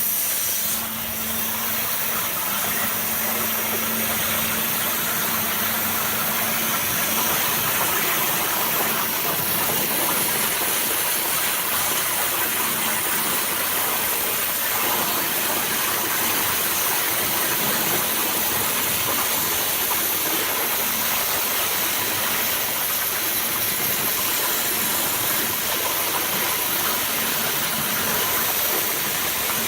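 Abrasive waterjet cutting machine running, its high-pressure water jet making a steady, loud hiss over a faint low hum.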